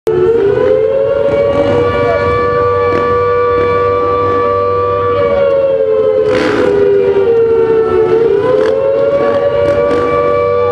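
A siren wailing on a steady two-note pitch, held long, dipping briefly and rising again about eight seconds in.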